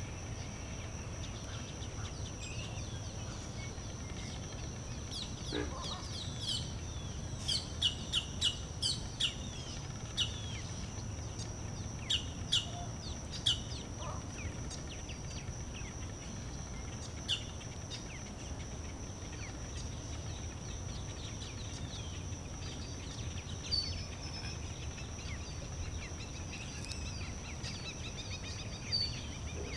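Birds chirping: short, sharp high notes come in a quick run from about seven to fourteen seconds in, with single chirps scattered elsewhere. Under them run a steady high-pitched whine and a constant low rumble.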